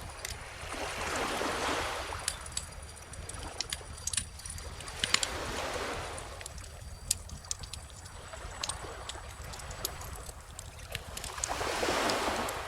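Wood fire crackling with scattered sharp pops, over small ocean waves washing in three times, the last near the end.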